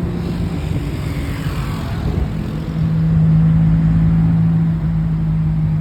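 A vehicle engine runs with a steady low hum and rumble, and something passing sweeps down in pitch between about one and two seconds in.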